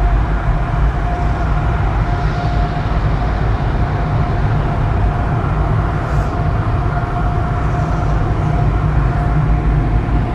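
Automatic car wash machinery heard from inside a Jeep Wrangler's cabin: a loud, steady rushing noise, heavy in the low end, with a steady mid-pitched whine running through it.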